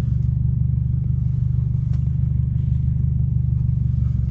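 BMW F30 328i's 2.0-litre turbocharged four-cylinder engine running steadily at a constant low pitch, with a fast even pulse and no revving.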